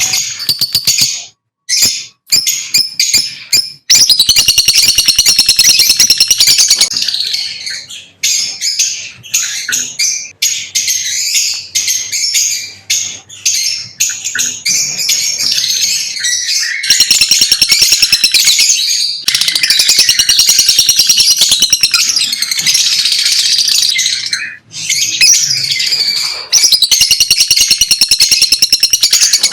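Lovebirds chirping and chattering: rapid, high-pitched twittering, loud and almost continuous, broken by a few short pauses.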